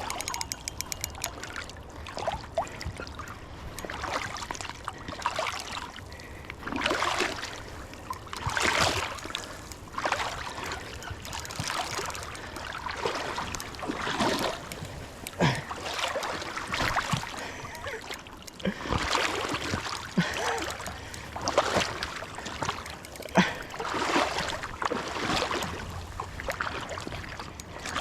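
River water splashing and trickling in irregular surges every second or two, over a steady low rumble, with a brief run of fast ticks about a second in.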